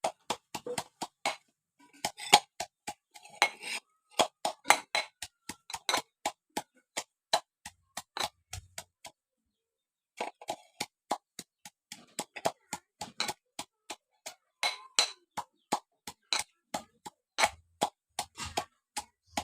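Leaves being chopped with a knife on a wooden board: a long run of sharp, irregular chops, about two to three a second, with a brief pause midway.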